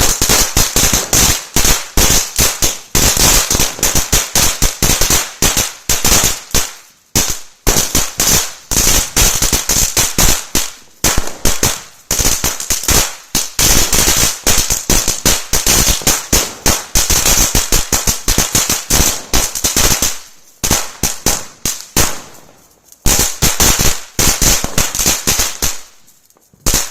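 Standard Fireworks 'Magical Whip' firecrackers going off as a rapid, irregular string of sharp bangs, with a few brief lulls, a longer pause about three quarters through, and one last bang at the end.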